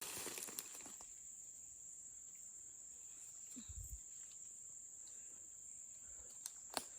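Steady high-pitched chirring of forest insects, one unbroken tone, with a few faint clicks and a soft low thump about halfway through.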